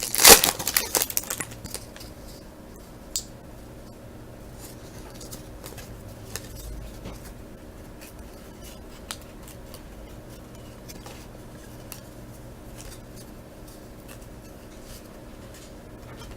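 A foil trading-card pack wrapper crinkling as it is torn open in the first second or two, then faint scattered clicks and rustles of the cards being handled and flipped through, over a steady low electrical hum.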